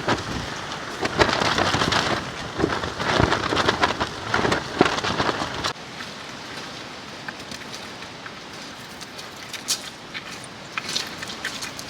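Heavy rain driven by strong, gusting wind, loud and surging with a low rumble. About halfway through it drops suddenly to a steadier, lighter rain with scattered sharp drip ticks.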